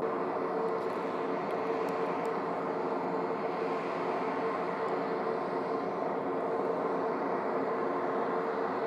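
Jet engines of a Boeing 737 MAX 8 airliner running, a steady rumbling noise with a held tone through it.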